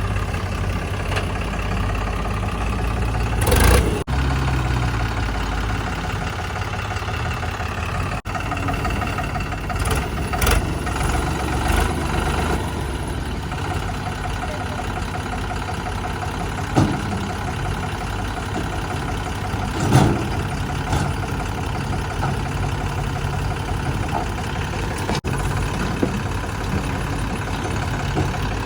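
Diesel engine of a backhoe loader at work running steadily, with a few sharp, loud knocks spread through it.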